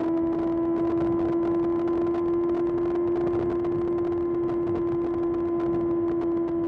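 Kawasaki ZX-6R inline-four engine running at steady high revs under a constant throttle, one held pitch that neither rises nor falls, with wind and road noise underneath.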